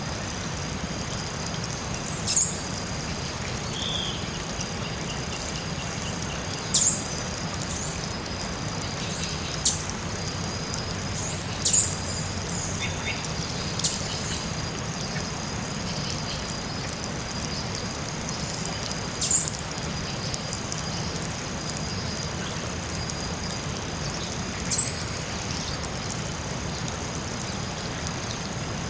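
Tropical forest ambience: a bird gives short, sharp high-pitched calls every few seconds, over a steady high-pitched hum and a constant soft background hiss.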